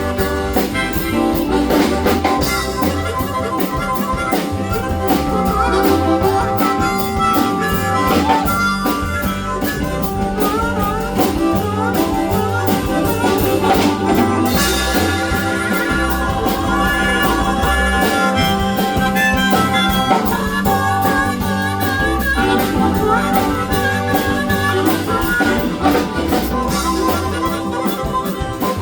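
Live acoustic band playing, with a wavering, bending lead line over a steady bass rhythm.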